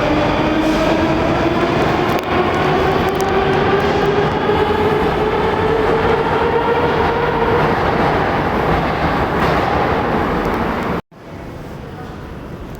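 Rusich (81-740/741) metro train moving through the station, its traction motors whining in several tones that glide slowly in pitch over the rumble of the wheels on the rails. The sound cuts off abruptly about eleven seconds in, leaving a quieter, windy background.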